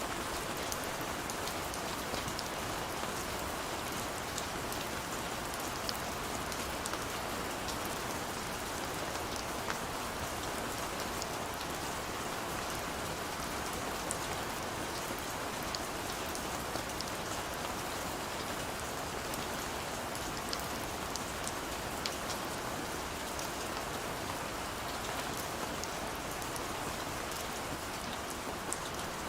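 Steady rain falling on hard surfaces, a dense even hiss with many small drop ticks scattered through it.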